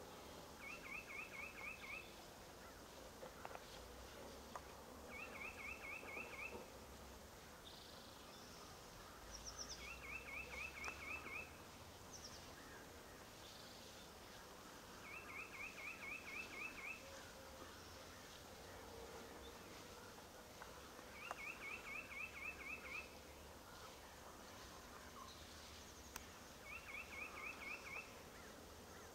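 A small songbird singing from a distance, repeating the same short, even trill of about eight quick notes every five seconds or so. Fainter calls from other birds come in between.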